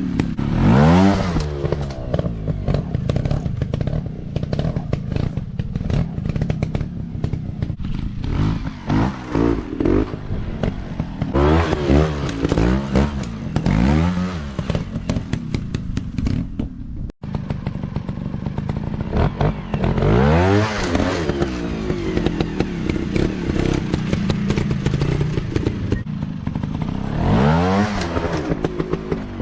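Motocross dirt-bike engines revving hard and easing off again and again, the pitch climbing and falling in repeated surges, with more than one engine sometimes overlapping and some clatter. There is a momentary break about halfway through.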